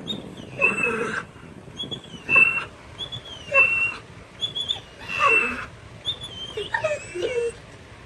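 Pit bull whining in a run of short, high-pitched whines, about one a second, many sliding down in pitch.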